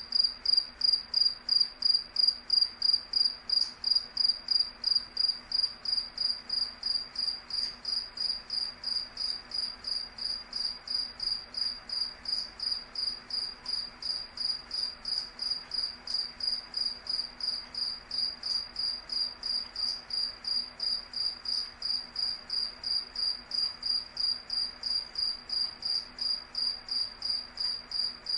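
A cricket chirping in an even rhythm of about three high-pitched chirps a second.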